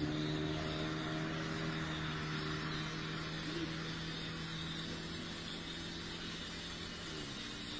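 A car engine idling with a steady hum that drops a little in pitch near the end, over a steady high hiss.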